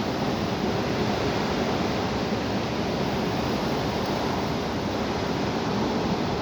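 High wind blowing: a steady rushing noise.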